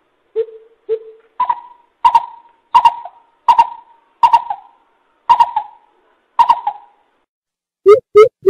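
Coucal (bubut) hooting. Two soft low hoots are followed by a series of about eight louder, higher hoots, each roughly 0.7 s apart. Near the end a quick run of lower hoots starts.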